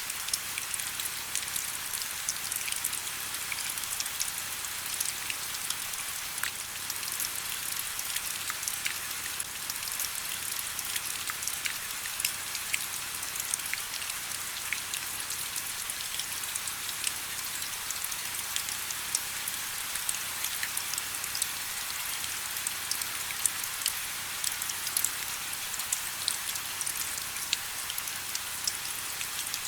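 Steady rain, a high even hiss scattered with many separate drops ticking sharply, with little deep rumble.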